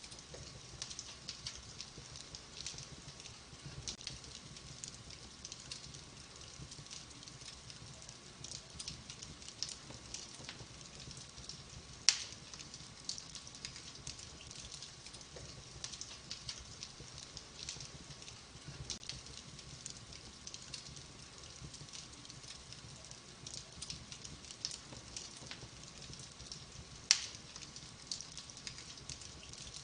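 Wood fire in a fireplace crackling, with a steady scatter of small snaps and two much louder pops, one about twelve seconds in and one near the end.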